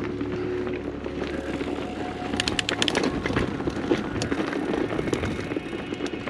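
Mountain bike rolling down a dirt and rock singletrack: tyres on the trail and the bike rattling over bumps, with a cluster of sharp clacks about two and a half to three seconds in.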